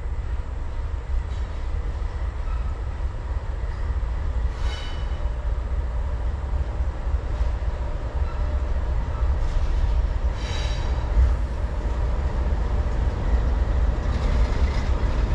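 Locomotives rolling slowly by with a steady low rumble, with brief high-pitched wheel squeals about five and ten seconds in.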